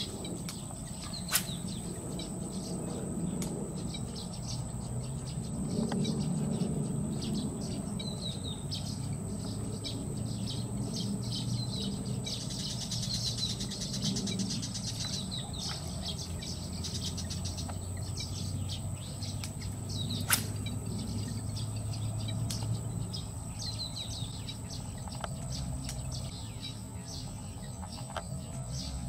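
Small birds chirping in short, repeated falling calls over a low steady rumble, with two sharp clicks, one about a second in and one about twenty seconds in.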